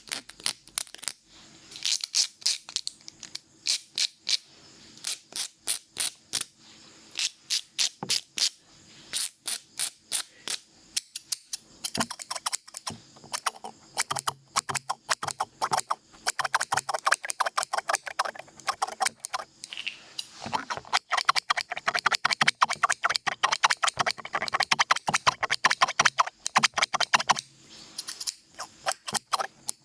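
Barber's scissors snipping close to the microphone in a long run of sharp snips, spaced out at first, then fast and dense for most of the middle stretch before slowing again.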